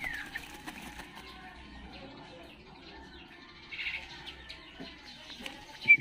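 Juvenile Asian koels moving about a wire-mesh cage, wings flapping and scuffling against the mesh, with a few short high calls. Near the end come sharp knocks and a brief stuttered high note, the loudest moment.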